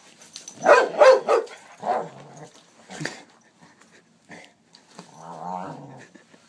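A dog barking in short, pitched bursts, three quick ones about a second in and more around two and three seconds, then a low growl near the end: the dog is agitated at being offered hot sauce.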